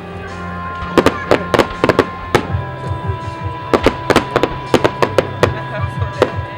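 Starmine fireworks bursting in a rapid, irregular string of sharp bangs, about fifteen in all, over music with held notes and a changing bass line.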